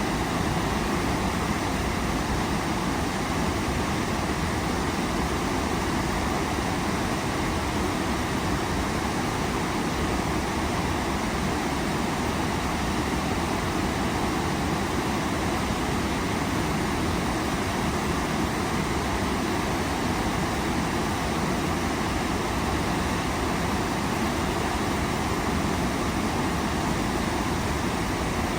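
Waterfall: falling water making a steady, unbroken rushing noise at an even level.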